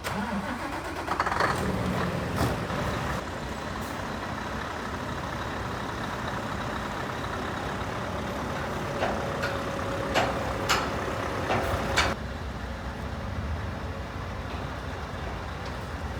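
Scania R730's 16-litre V8 diesel engine running steadily, a little louder for the first few seconds. A cluster of sharp metallic knocks comes about two-thirds of the way through.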